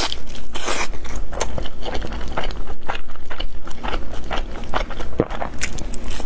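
Close-miked eating of pan-fried chive pockets: many quick, irregular crunches and wet chewing as the crisp fried dough crust and vermicelli-and-chive filling are bitten and chewed.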